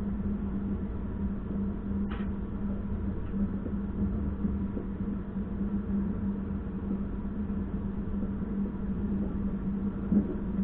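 Passenger train running: a steady low rumble with a constant hum, and a brief higher-pitched sound about two seconds in.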